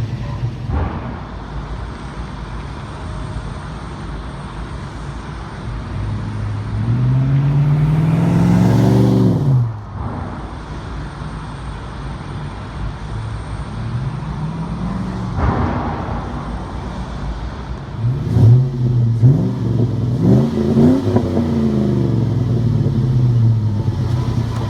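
2005 Chevrolet Silverado's 4.8-litre V8 through a Borla Pro XS muffler, otherwise stock exhaust, idling and being revved. There is one long rev that climbs and then drops off sharply, a shorter rev a few seconds later, and a run of quick blips of the throttle before it settles back to idle.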